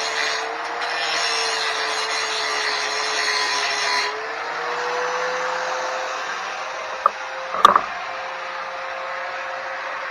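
Angle grinder with a grinding disc running steadily, grinding the cut edges on a steel motorcycle frame. The grinding eases about four seconds in and the grinder keeps whining with lighter contact. Two sharp metallic knocks come near the middle.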